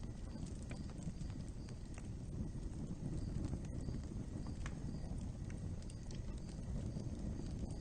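Open fire burning: a steady low rumble of flames with scattered sharp crackles and pops.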